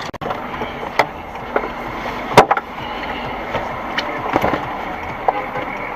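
Steady road and engine noise inside a car, with a few light knocks and one sharp loud bang about two and a half seconds in.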